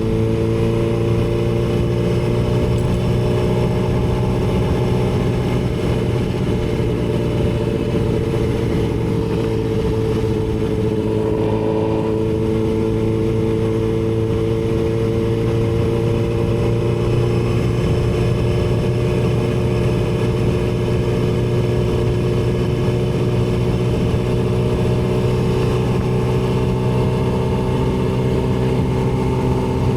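Yamaha R6 sport bike's inline-four engine running at steady cruising revs, its pitch sagging slightly about ten seconds in and then creeping gently back up.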